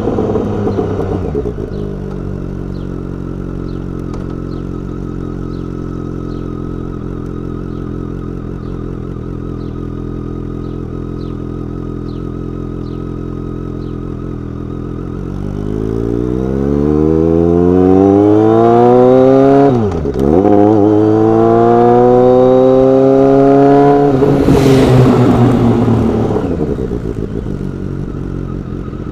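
BMW K1200R's inline-four engine through a Dekevic 8-inch stainless muffler, idling steadily, then accelerating with the pitch and loudness rising. The pitch dips sharply and recovers about two-thirds of the way in, holds loud for a few seconds, then falls and the sound fades near the end.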